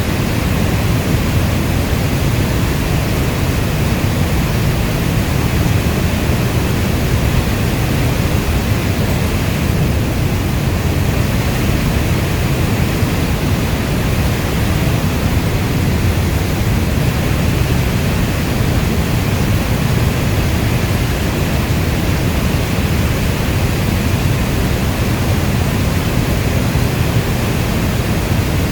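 Heavy rainstorm falling as a steady, dense hiss, weighted toward a deep low rumble.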